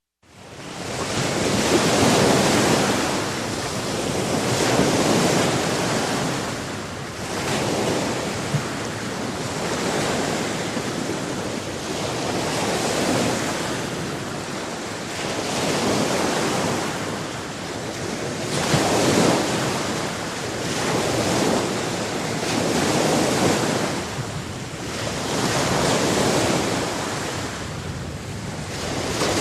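Sea waves washing onto the shore, the surf swelling and falling back about every three seconds.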